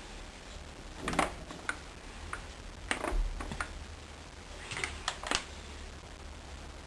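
Several sharp clicks and light taps in three small clusters, over a low steady hum.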